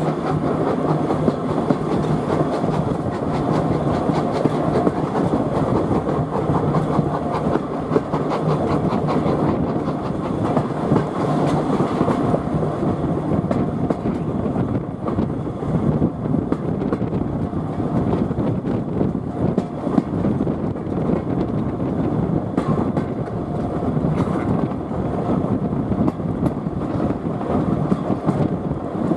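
Steam-hauled heritage passenger train heard from on board while running: a steady rumble of carriage wheels on the rails with continual clickety-clack and rattling.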